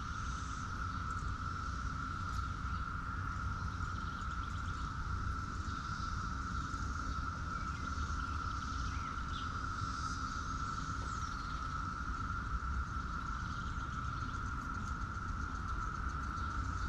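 Outdoor farm ambience: a steady, even insect drone, with faint scattered bird chirps over a constant low rumble.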